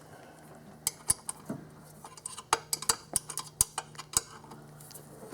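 Irregular sharp metallic clicks and clinks of a 12 mm wrench working a bracket bolt tight, about a dozen of them starting about a second in and stopping a little after four seconds. A faint steady low hum lies underneath.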